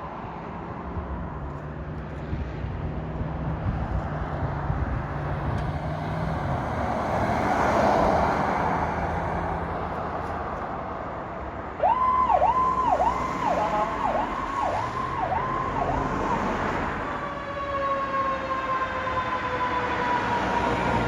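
Fire apparatus responding: vehicle engine and road noise swells as it passes. About twelve seconds in, a siren starts suddenly in a fast rising-and-falling wail, then turns into a long, slowly falling tone.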